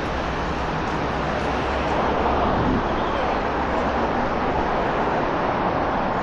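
Steady noise of road traffic passing on a busy city street, an even wash of tyre and engine sound with no single standout event.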